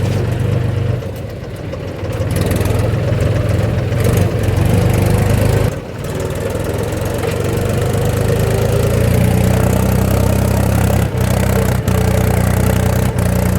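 Diesel engine running steadily, with a brief dip in level about six seconds in.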